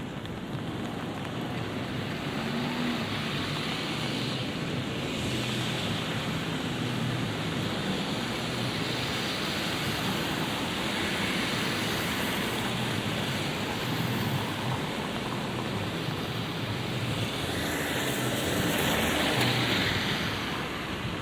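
Light rain falling steadily on a city street, with the tyre hiss of passing cars on the wet road swelling and fading several times, the loudest near the end.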